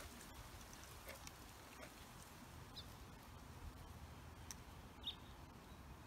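Quiet outdoor ambience with a faint low rumble, and two faint, short bird chirps, the clearer one about five seconds in.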